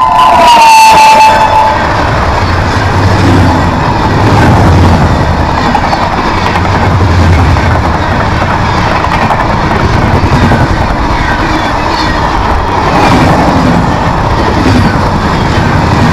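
Express train passing at speed without stopping: the locomotive's horn drops in pitch as it goes by and cuts off about two seconds in, then the coaches rush past with loud, steady wheel-on-rail noise.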